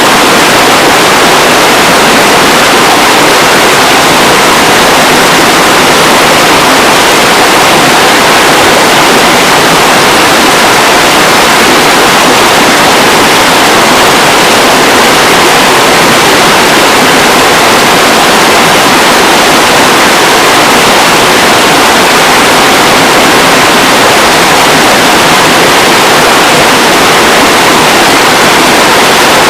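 River water rushing, a loud steady hiss with no breaks.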